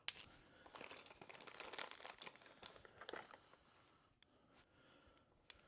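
Faint handling noises: light rustling and crinkling with a few small clicks as parts and tools are handled at the axle housing. The busiest rustling comes about one to three seconds in.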